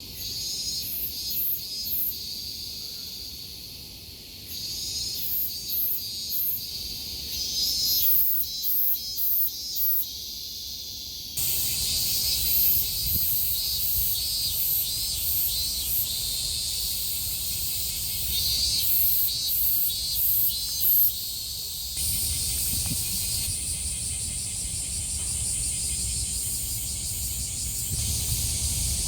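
Chorus of cicadas: a dense high-pitched buzzing with repeated pulsing calls swelling and fading over it. A low rumble joins underneath about a third of the way in.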